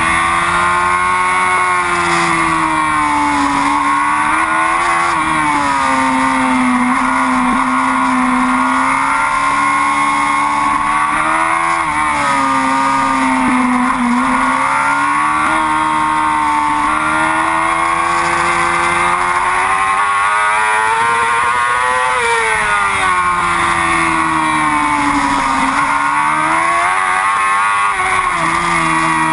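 Yamaha R6 racing motorcycle's inline-four engine at high revs, the pitch rising and falling continuously as the rider accelerates and slows through the corners, with wind and road noise underneath.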